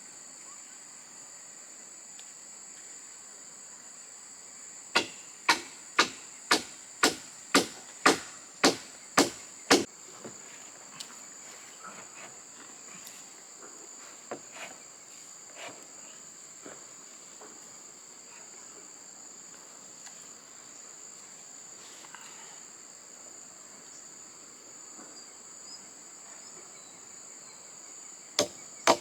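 A run of about ten sharp blows of a hand tool on wood, about two a second, starting about five seconds in, followed by a few lighter knocks, and another run of blows beginning near the end. Behind them, a steady high-pitched insect drone.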